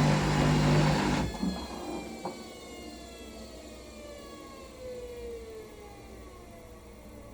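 Hoover washing machine: the drain pump's loud steady hum cuts off about a second in, leaving a quieter whine that falls slowly in pitch as the drum and its motor wind down.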